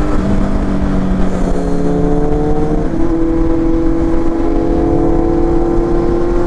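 Kawasaki Z800's inline-four engine pulling under way, its note climbing slowly with the revs, dropping about three seconds in at a gear change and climbing again. A constant low wind rumble sits on the microphone underneath.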